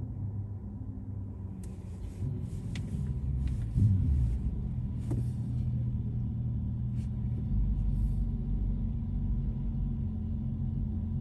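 Car driving, with a steady low rumble of engine and tyres and a few short knocks and rattles between about two and eight seconds in.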